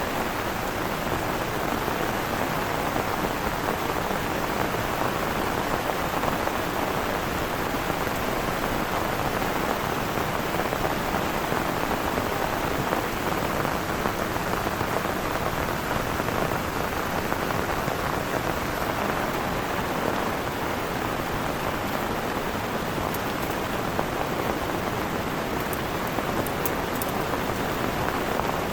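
Heavy rain falling steadily, an even dense hiss of drops.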